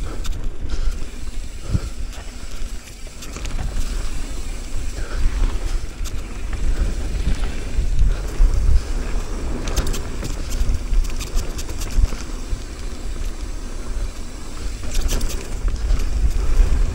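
Wind buffeting the microphone of a helmet-mounted action camera on a fast mountain bike descent, a constant low rumble, with tyre noise on the dirt and rattling and clicking from the bike and camera mount over bumps.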